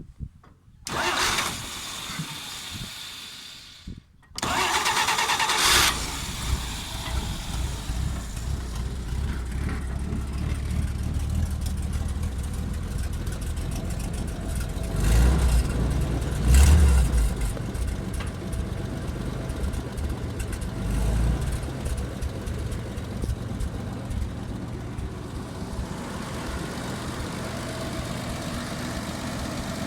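Dodge WC62's flathead straight-six cranked on the starter, first briefly, then again about four seconds in, when it catches. It settles into a smooth run, gets a few blips of throttle in the middle, and then idles steadily on its freshly serviced points, cleaned carburettor and fresh fuel.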